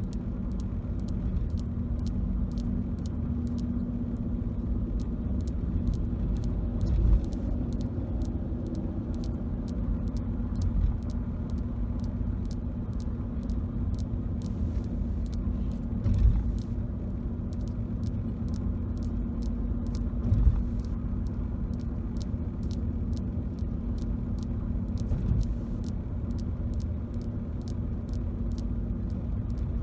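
Road noise inside a moving car's cabin: a steady low rumble with a few brief bumps from the road. Faint quick clicks run through it.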